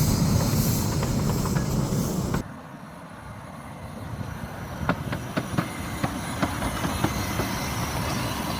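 Narrow-gauge train running, loud at first, then cut off abruptly about two and a half seconds in. After the cut it is quieter, with sharp clicks from the train running over the rails, slowly growing louder.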